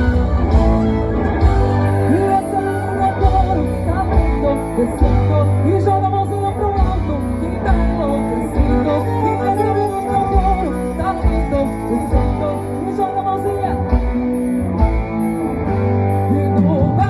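A live band playing amplified music through a PA system, with singing, guitar and a heavy bass line.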